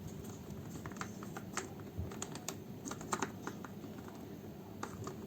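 Scattered light clicks and taps of dishwasher filter parts being handled and fitted back into place, with a few sharper clicks in the middle.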